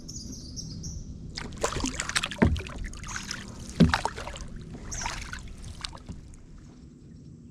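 Kayak paddle strokes splashing and dripping water, with two sharp knocks about two and a half and four seconds in, the loudest sounds, and quieter splashing that fades away near the end.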